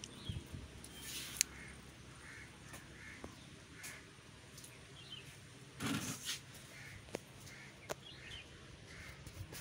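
Short bird calls repeating every half second or so over quiet outdoor background, with a few light clicks and a brief thump about six seconds in.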